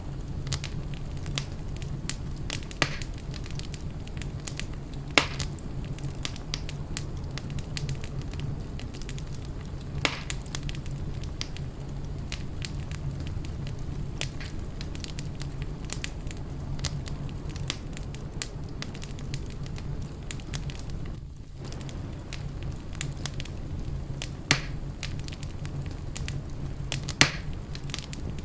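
Wood fire in a fireplace crackling steadily over a low hum, with a few louder sharp pops.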